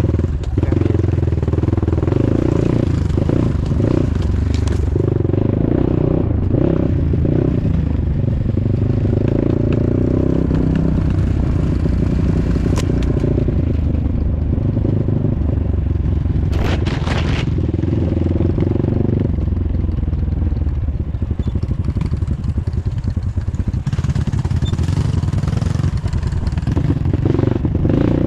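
Off-road motorcycle engine running steadily while riding a wet, muddy trail, with occasional clatter and scraping and a short rattle about seventeen seconds in.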